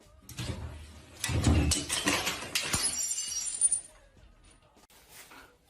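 A crash and clatter of something breaking, with high ringing clinks near the end before it stops suddenly.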